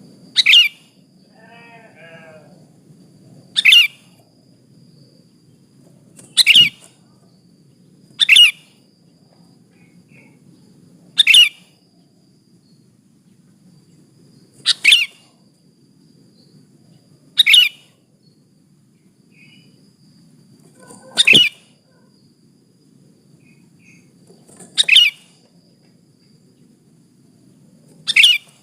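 Sooty-headed bulbul (kutilang) giving short, sharp calls, one every two to four seconds, ten in all; it is presented as a female calling a male. A fainter, lower call sounds once about two seconds in.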